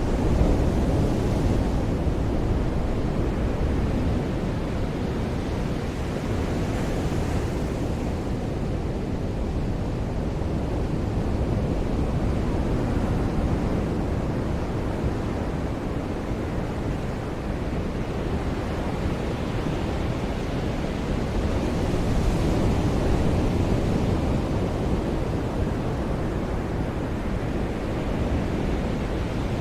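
Ocean surf washing onto a beach: a continuous low rushing, with waves breaking and swelling slightly louder about a second in, around seven seconds in and around twenty-two seconds in.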